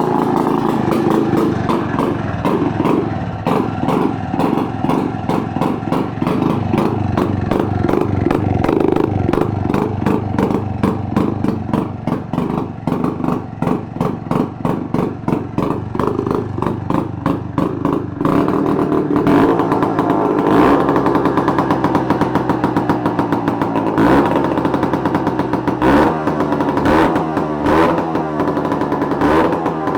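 IZh Planeta-5 motorcycle's single-cylinder two-stroke engine running on its first start after a full rebuild. It idles unevenly with a pulsing beat, then is revved briefly several times in the second half.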